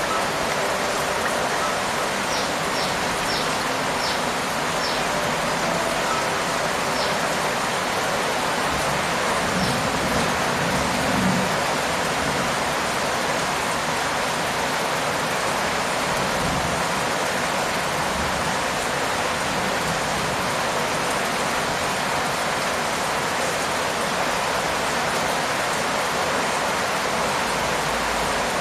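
Steady rain falling, an even hiss with no let-up. A few short high chirps sound about two to five seconds in.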